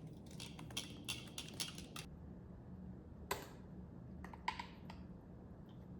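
Light clicks and taps of kitchen utensils and ingredients being handled during food prep, a quick run of them at first, then a single sharper knock and a few more taps.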